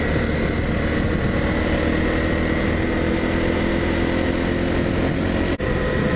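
Dual-sport motorcycle engine running steadily at cruising speed with wind rush, as heard from a rider-mounted camera. The sound drops out for an instant about five and a half seconds in.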